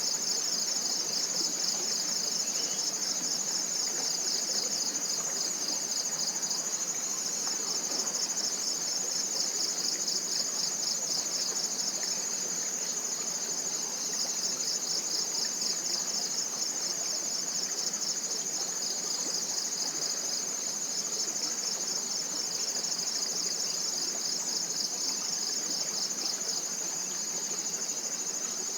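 Chorus of forest insects: one steady high-pitched trill, and below it a second, rapidly pulsing trill that comes in phrases of several seconds with short breaks. A soft, even hiss runs underneath.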